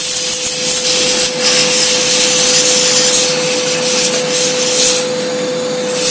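A jet of compressed air blowing dust out of a desktop computer case, a loud continuous hiss with a steady whine underneath.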